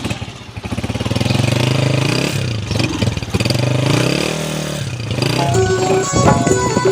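Motorcycle engine running and being revved, its pitch rising and falling twice as it pulls away. Background music comes in about five and a half seconds in.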